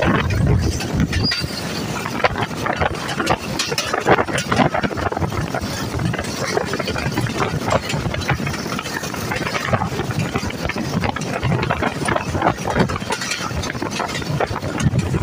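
Pakistan Railways passenger train running at speed, heard from beside an open coach door: a steady rumble of steel wheels on the track, with constant irregular clatter and knocks from the wheels and the coaches.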